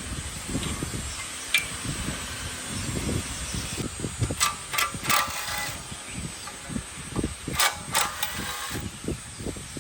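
Hand-tool work on metal parts: irregular knocks and thuds, with sharp clinks and short scraping bursts about a second and a half in, again around four to five seconds, and near eight seconds.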